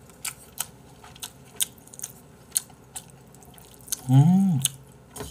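Close-miked chewing of Jjapagetti noodles: wet mouth clicks and smacks about two a second. About four seconds in, a short hum with the mouth full rises and falls in pitch, then the chewing goes on.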